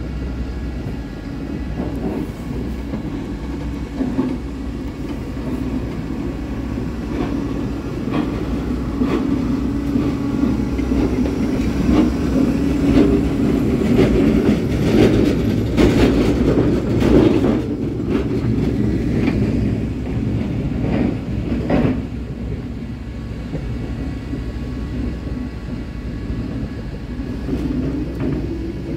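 Road-rail vehicles rolling along the track over the level crossing, their engines running with a steady rumble that swells to its loudest about halfway through. Wheels click over the rail joints in clusters near the middle.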